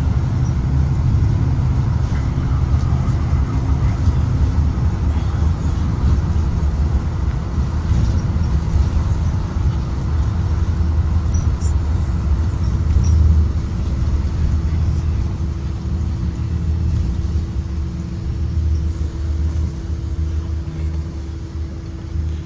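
Blue Bird Vision school bus under way: a steady low engine and road rumble with a constant hum over it, easing slightly near the end.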